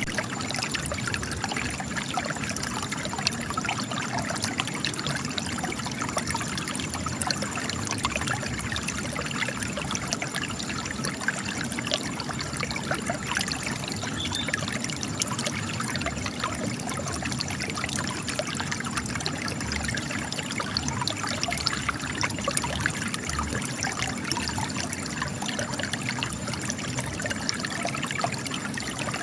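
Spring water trickling and splashing steadily from cracks in rock, a continuous dense patter of small splashes.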